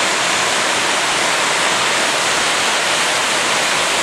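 Fast-moving floodwater rushing steadily, a loud even roar of swollen creek water.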